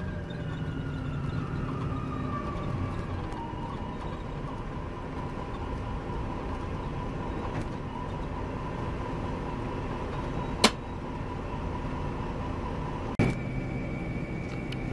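Inside a Volvo B9R coach on the move: steady engine and road noise, with a whine that falls in pitch over the first few seconds and then holds steady. A sharp click comes about ten and a half seconds in, and a knock near the end is followed by a steady high tone.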